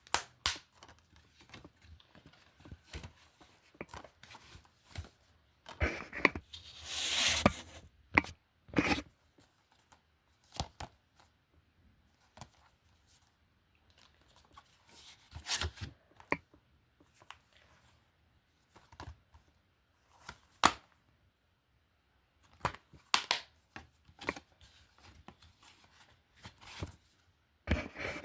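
Plastic DVD cases being handled and moved: irregular clicks and clacks, with a longer scraping rustle about seven seconds in.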